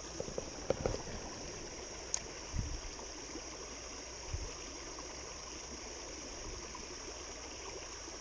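Creek water running steadily over a small waterfall. A few low knocks come in the first three seconds, with a sharp click about two seconds in.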